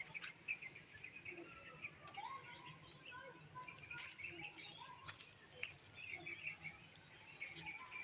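Several small birds chirping and calling in quick, short notes, with scattered soft crackles of footsteps through dry leaves and undergrowth.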